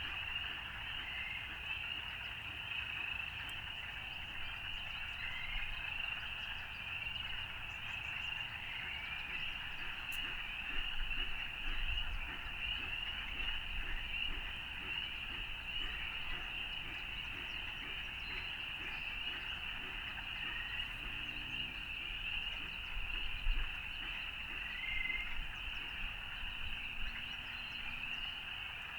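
A dense chorus of frogs calling without pause, many short high calls overlapping, over a faint low rumble.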